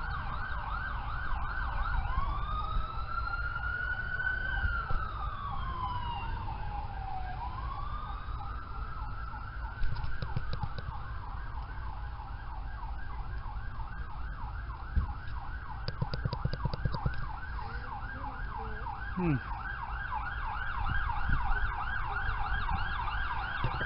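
Emergency vehicle siren sounding: a fast, rapidly repeating yelp runs throughout, joined from about two seconds in by a slow wail that rises, falls and rises again, over a steady low rumble.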